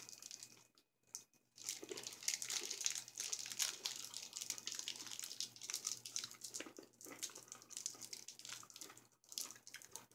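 Close-up crunching and chewing of a candy-shelled chocolate mint, its thick hard shell cracking. A dense run of crackly crunches starts about a second and a half in and dies away near the end.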